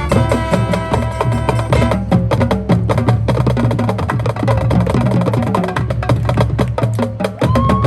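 Marching band playing: sustained wind chords for about two seconds, then a passage carried by the percussion section with rapid drum and wood-block strokes, and a new held note coming in near the end.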